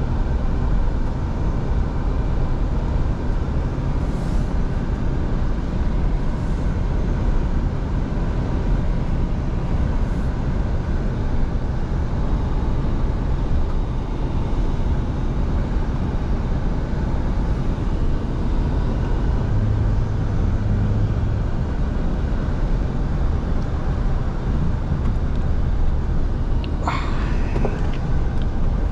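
Scania V8 truck driving at a steady pace: a continuous low engine and road rumble. Near the end a brief sharp sound cuts across it.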